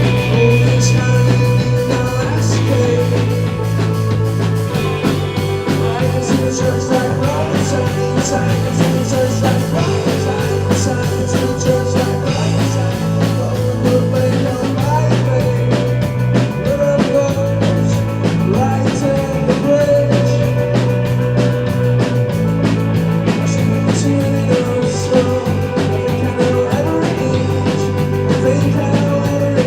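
Live rock band playing: drum kit, guitar and held bass notes that change in steps.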